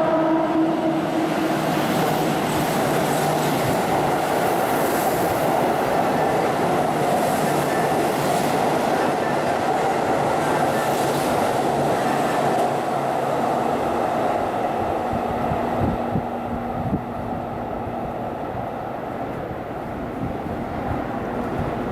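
Keihan 3000 series electric train running on the rails: a steady rumble of wheels on track, easing a little about three-quarters of the way in, with a few sharp knocks.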